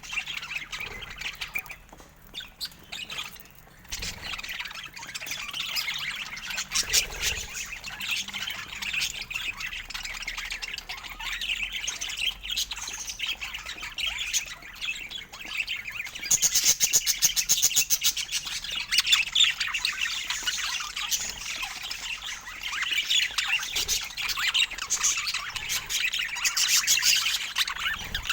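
Budgerigars chattering and warbling without a break, with louder spells of rapid chatter about halfway through and again near the end.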